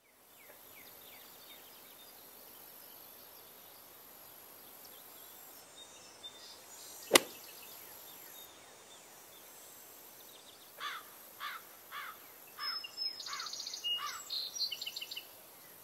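Outdoor ambience with a faint steady hiss, a single sharp click about seven seconds in, then a bird calling in the second half with a series of quick downward-sliding chirps, about two a second, mixed with higher twittering.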